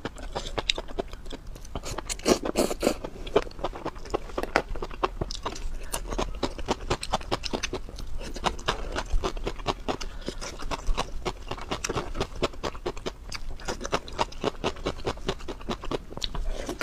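Close-miked eating of spicy, sauce-coated vegetables: rapid wet chewing and mouth smacks, with crunchy bites.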